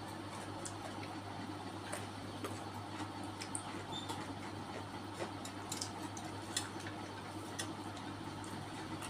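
Close-miked eating: chewing with irregular wet mouth clicks and smacks, over a steady low hum.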